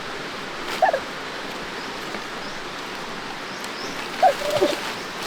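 A few short animal calls, one about a second in and a cluster about four seconds in, over a steady background hiss.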